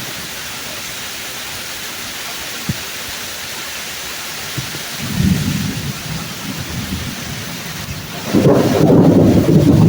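Steady rain with thunder: a rolling rumble starts about halfway through, and a louder, longer crackling rumble of thunder comes near the end.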